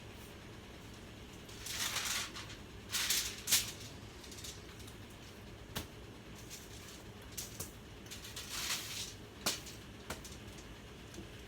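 Seasoning shaker shaken in short bursts over raw meat, three rattling shakes, with a few light clicks and knocks as the pieces are handled and flipped.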